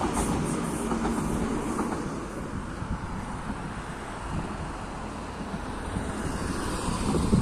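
A train passing on the rails, its rumble loudest at the start and easing off through the middle.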